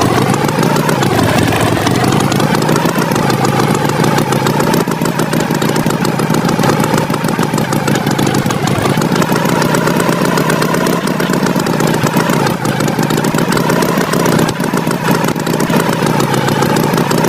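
A cartoon tractor's engine sound effect running steadily: a loud buzzing drone whose pitch wavers slightly up and down.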